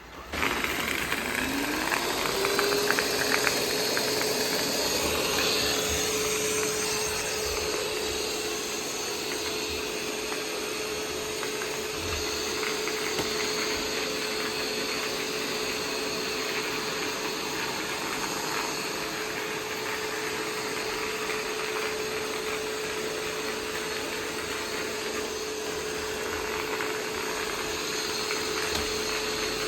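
Roomba 505 robot vacuum starting to clean: it comes on suddenly, its motor whine rising in pitch over the first couple of seconds and then holding one steady tone over the whirr of the suction and brushes.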